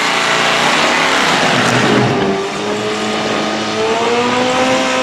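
Racing engines revving loudly over a dense haze of exhaust and tyre noise; from about two seconds in, one engine's note rises and falls smoothly.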